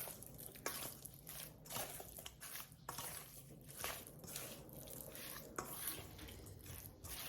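Cubes of oiled, seasoned raw salmon being stirred and tossed in a bowl: soft, wet squishing and scraping, repeated irregularly every fraction of a second.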